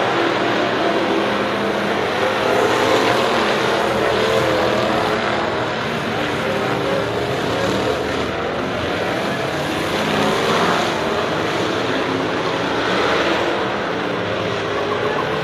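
Several race cars' engines running hard around a short oval track, the sound swelling and easing every couple of seconds as cars pass.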